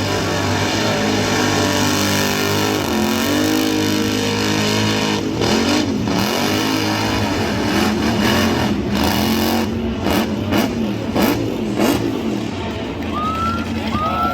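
Car engines revving hard, pitch rising and falling again and again, with sharp cracks breaking in from about five seconds on. A short high whistle rises near the end.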